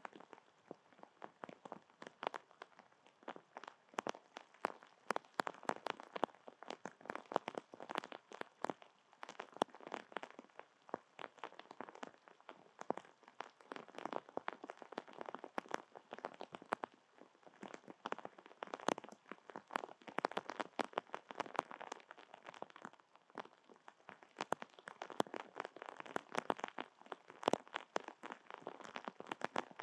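Rain falling, with dense, irregular drops ticking and crackling on hard surfaces close to the microphone.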